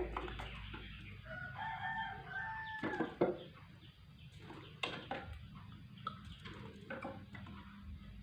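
A long animal call, held for about two seconds and dropping in pitch at its end, followed by scattered light knocks and clicks.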